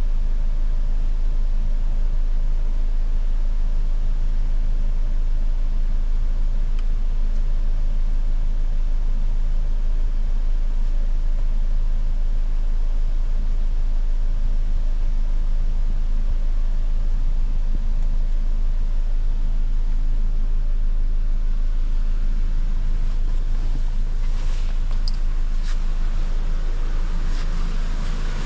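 Cadillac XT4's 2.0-litre turbocharged four-cylinder engine idling steadily.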